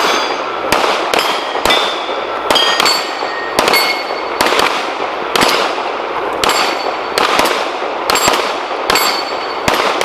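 Pistol gunfire in an uneven string of about sixteen shots, from two shooters firing against each other, with many shots followed by the ringing clang of bullets striking steel plate targets.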